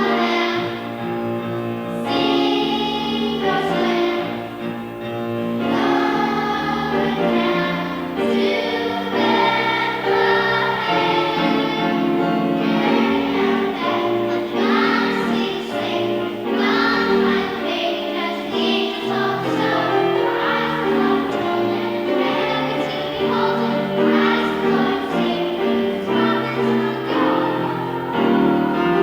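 A choir singing a song with instrumental accompaniment and a moving bass line.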